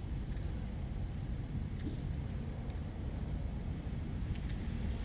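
Steady low rumble of wind buffeting the microphone, with a few faint short clicks.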